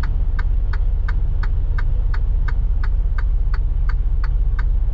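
Semi truck's diesel engine idling with a steady low rumble, heard from the cab, while the turn-signal flasher clicks evenly about three times a second.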